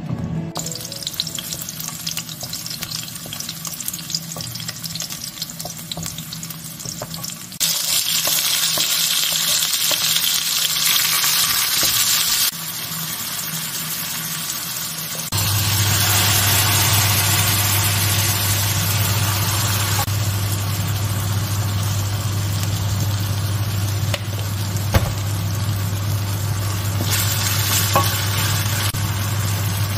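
Tomatoes, garlic and chilli flakes sizzling in oil in a nonstick frying pan while a wooden spatula stirs them. The sizzle gets louder about a quarter of the way in, and a steady low hum joins it about halfway through.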